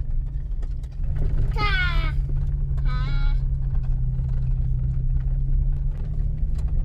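A vehicle driving, with a steady low engine hum and road rumble and scattered small knocks. Two short, high-pitched voice-like sounds come about a second and a half in and again about three seconds in.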